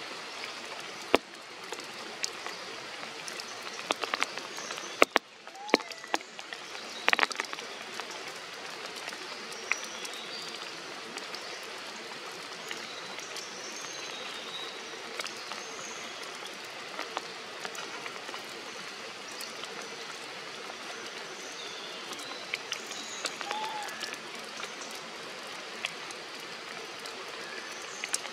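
Steady rain falling on forest foliage, a continuous hiss with scattered sharp drip taps, most of them in the first several seconds.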